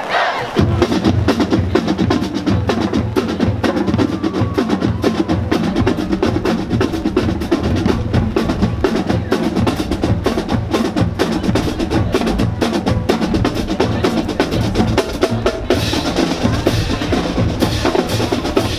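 Marching band drumline playing a fast drum cadence: rapid snare drum strokes and rolls over bass drums hit on several different pitches.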